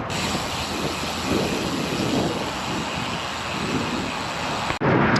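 Steady rush of wind buffeting the microphone of a road bike riding into a strong headwind, mixed with tyre and road noise; it breaks off suddenly near the end.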